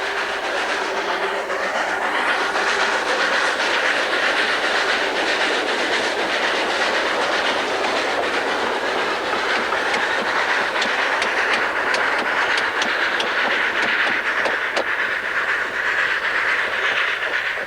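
Narrow-gauge slate train on the Festiniog Railway running past, its wagons clattering with a steady rushing noise. Sharp wheel clicks over the rail joints come thicker in the second half.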